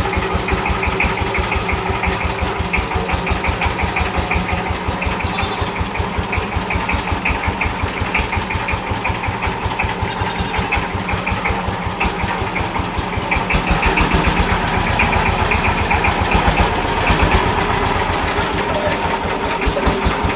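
Saifing 12-horsepower single-cylinder diesel power tiller engine running with an even, rapid beat as the tiller is driven along. It gets louder about two-thirds of the way through.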